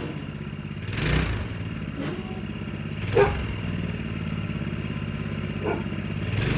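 Small engine idling with a fast, even pulse, swelling briefly a few times.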